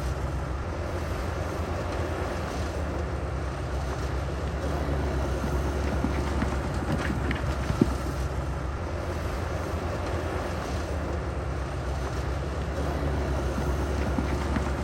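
Heavy diesel machinery running steadily, its low engine drone overlaid with a rushing, wind-like noise, with one sharp knock about eight seconds in.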